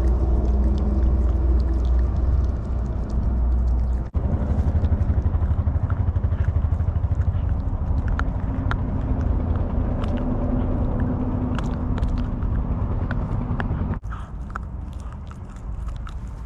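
A dog eating food it has been given, chewing with many small crunching clicks. A loud steady low rumble runs underneath and drops away sharply near the end.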